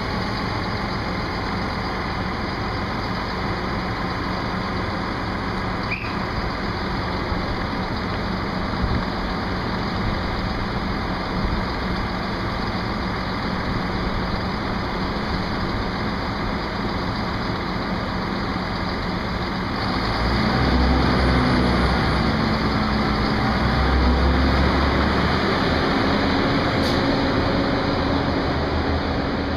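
Diesel train engine running steadily at idle, then revving louder about twenty seconds in with a deep rumble and shifting pitch, as it takes power.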